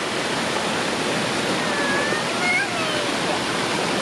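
Fast-flowing creek water rushing steadily, the creek running high after heavy rain.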